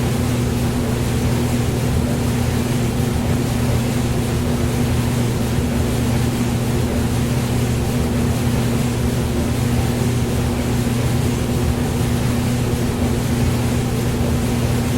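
Hair dryer running steadily: a constant motor hum under an even rush of blown air, with no change in speed.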